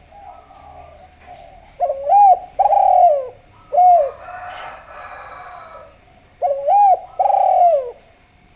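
Spotted dove (derkuku) cooing: a phrase of three loud, arched coos, then after a pause of a couple of seconds two more.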